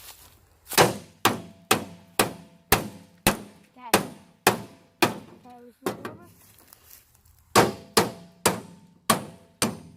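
A 3-pound sledgehammer beating on a microwave's metal casing: a run of about fourteen blows, roughly two a second, with a short pause in the middle, the sheet metal ringing briefly after each strike.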